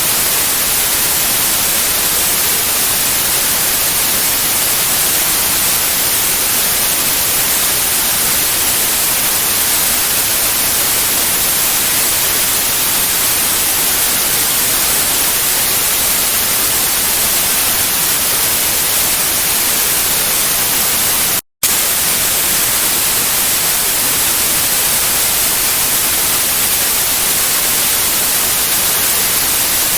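Steady white noise, an even hiss strongest in the highs, played as a baby sleep sound. It cuts out completely for a split second about two-thirds of the way through, then resumes unchanged.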